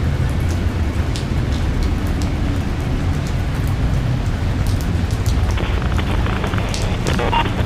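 Steady rain, with scattered sharp drop ticks over a low, even rumble.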